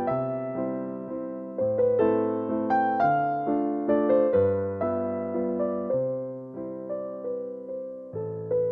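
Background music: a gentle electric piano melody over sustained bass notes, each note struck and fading.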